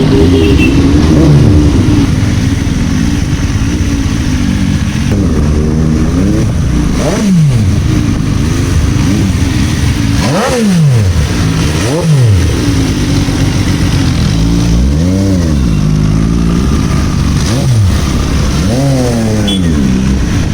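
MV Agusta F3 RC 800's 798 cc three-cylinder engine through an SC Project exhaust, loud, revving up and down repeatedly while ridden, its pitch rising and falling every couple of seconds.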